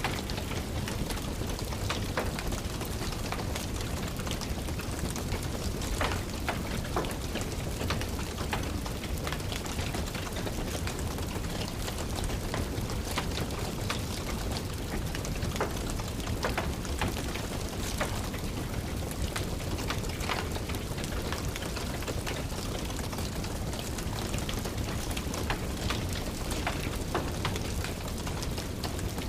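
Steady rain with a wood fire crackling, sharp pops scattered irregularly through the even patter.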